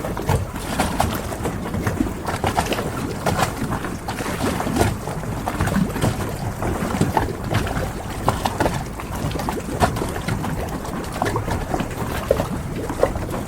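Harbor ambience: water sloshing around moored boats, with frequent irregular knocks and clicks over a steady low rumble of wind.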